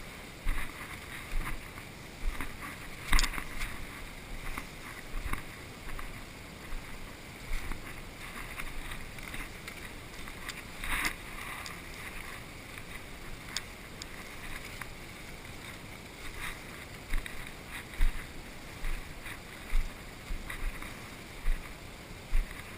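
Footsteps and rustling of brush as someone moves through undergrowth, with irregular soft thumps, scattered clicks and two sharper snaps or knocks, over wind on the microphone.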